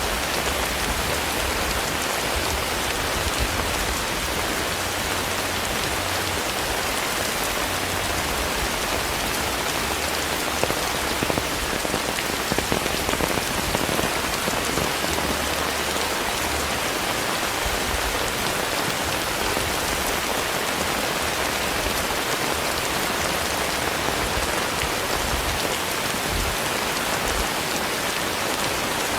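Steady rainfall, an even hiss with a few sharper drop taps around the middle.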